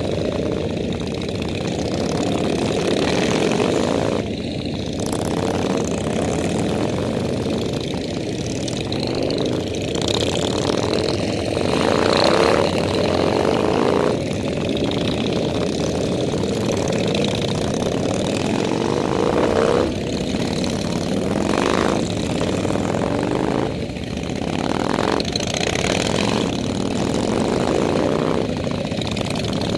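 Motorcycle engines running on the road, a steady drone whose pitch repeatedly climbs and drops as the bikes accelerate and shift.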